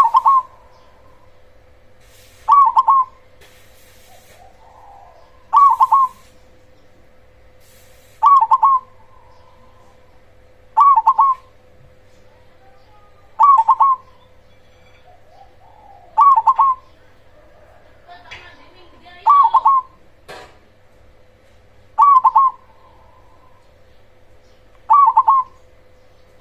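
Zebra dove (perkutut) cooing: a short phrase of a few coo notes, repeated about every three seconds, ten times over. A steady faint hum lies under it, and there is a single sharp click about two-thirds of the way through.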